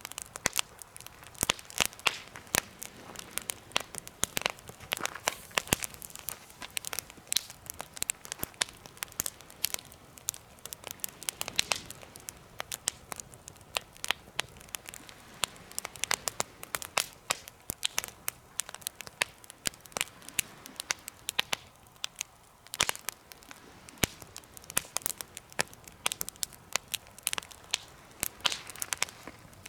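Wood fire burning in a homemade fire stand, crackling with frequent, irregular sharp pops over a low hiss.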